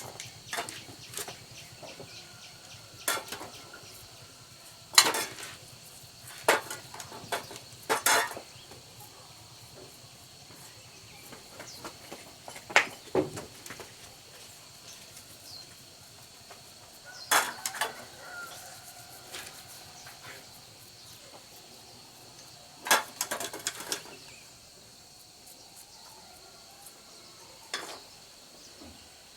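Small metal parts and hand tools clinking and knocking as they are handled, about a dozen sharp clicks spread irregularly, some in quick clusters of two or three, over a steady high-pitched drone.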